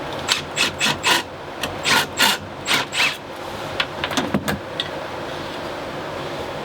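Cordless drill run in a string of short bursts on sheet-metal screws, with scraping and clinks of metal, over about the first three seconds; a few lighter clicks follow, then only a steady background hum.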